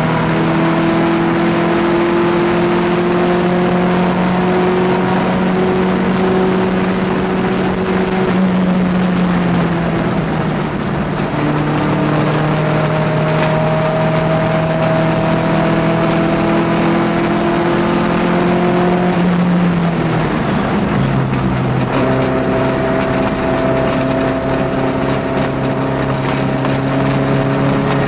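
Porsche 914-4's air-cooled flat-four engine pulling hard at track speed, heard from inside the cabin: the engine note climbs slowly, drops sharply about a third of the way in and again about two-thirds of the way in, then climbs again.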